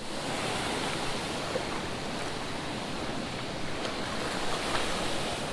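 Steady rushing of water from a creek waterfall, an even wash of noise with no distinct splashes.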